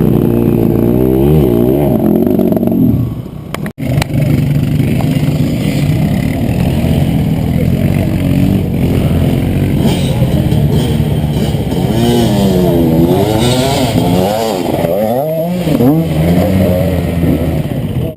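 Enduro motorcycle engines revving up and down in quick swings of pitch as riders work through a stream crossing, with a sudden brief dropout just before four seconds in.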